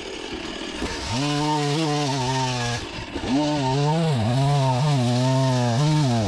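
Chainsaw cutting through a honey locust trunk. The engine comes up to full throttle about a second in, then its pitch dips and recovers several times as the chain bogs down in the cut.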